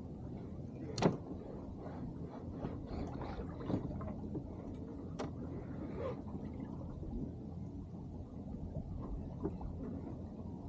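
Steady water and wind rush aboard a small sailing keelboat under way, with a few sharp knocks from deck gear or rigging, the loudest about a second in.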